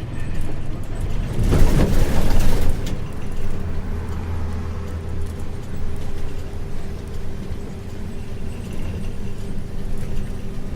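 Isuzu 6QB2 diesel engine of a 1994 Isuzu U-LV224N bus running steadily, heard from inside the bus as a low drone. About a second and a half in comes a loud rushing burst lasting roughly a second and a half.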